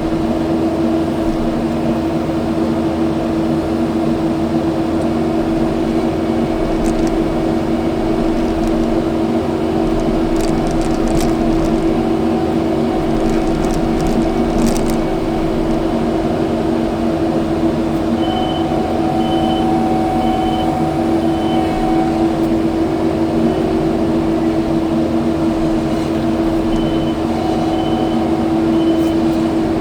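Kubota skid steer's diesel engine and hydraulics running steadily with a constant hum, heard from the operator's seat. Two runs of short, evenly spaced high beeps come in during the second half.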